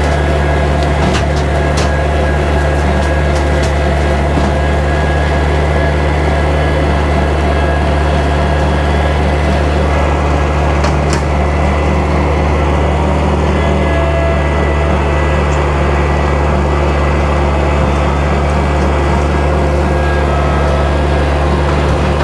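Kubota tractor's diesel engine running steadily with the bush hog rotary cutter, with a few sharp cracks about a second in and again near the middle.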